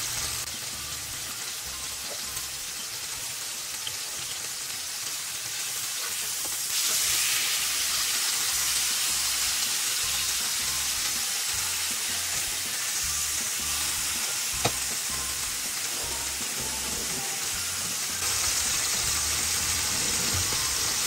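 Thin beef steaks sizzling in oil in a frying pan while they are turned over with a metal spatula and fork; the sizzle gets louder about seven seconds in, and there is one sharp click of metal on the pan about halfway through.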